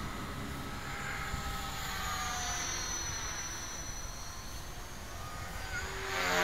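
Electric 450-size RC helicopter in flight: a motor and rotor whine whose pitch glides up and down as it manoeuvres. It grows louder near the end as it sweeps past with a quick change in pitch.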